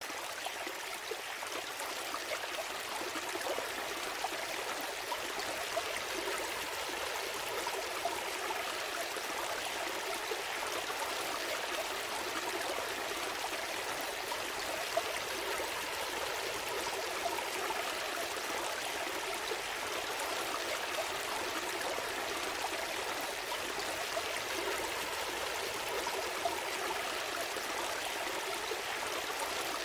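Gentle stream flowing steadily, water trickling and gurgling over stones.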